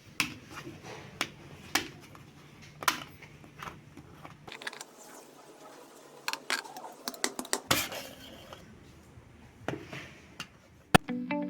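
Irregular clinks and knocks of metal and plastic parts being handled while the tractor's gearbox is opened for a transmission oil top-up, with a sharp click near the end.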